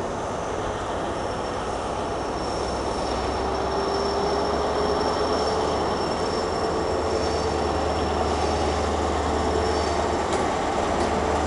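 Train running slowly along the track, heard from on board: a low steady rumble, with a thin, high wheel squeal that sets in about a second in and holds.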